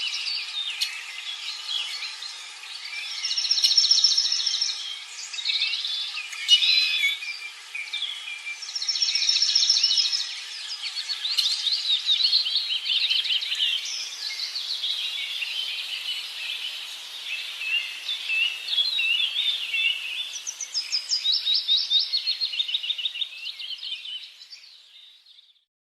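Birds singing: several overlapping songs and chirps, with a rapid high trill phrase recurring a few times. The sound fades out near the end.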